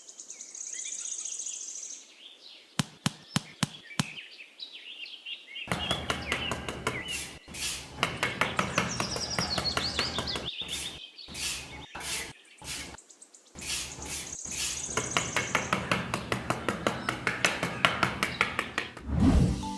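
Rapid runs of sharp knocks, several a second, like small hand tools working wood, with a few isolated knocks near the start. Birds chirp at the start and again past the middle.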